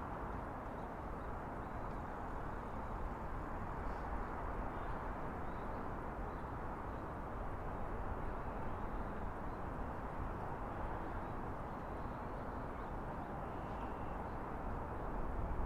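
Steady outdoor city ambience: a continuous even hum of traffic, with a few faint high chirps now and then.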